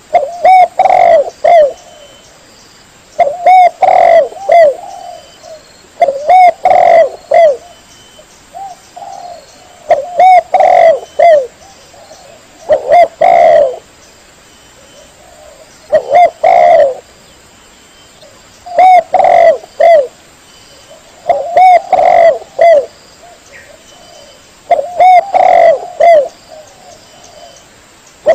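Spotted dove (tekukur) cooing loudly: a short phrase of several coos, repeated about every three seconds, with quiet gaps between phrases.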